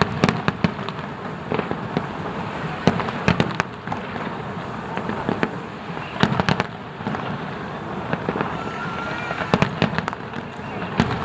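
Aerial fireworks display: a continuous run of bangs and crackling, with denser volleys of loud bursts about three, six and nine and a half seconds in.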